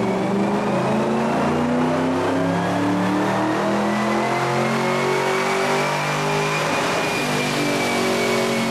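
Vortech-supercharged 4.6 L DOHC V8 of a 2003 Mustang Mach 1 running under load on a chassis dyno, with a thin supercharger whine that climbs slowly in pitch for about six seconds, then eases back down near the end.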